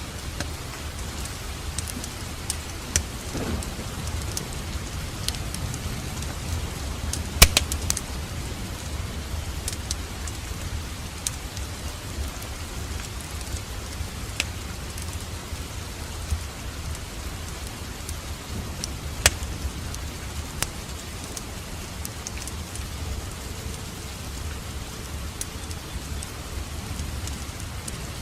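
A fireplace fire crackling steadily over a low rumble, with scattered sharp pops, the loudest about seven seconds in.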